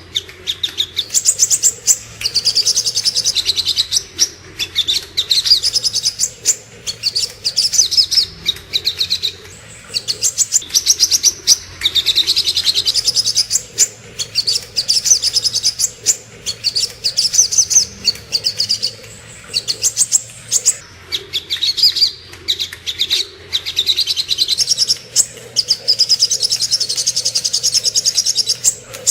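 Sogok ontong, a spiderhunter, singing: rapid runs of high, sharp chirps in phrases a few seconds long, separated by short pauses.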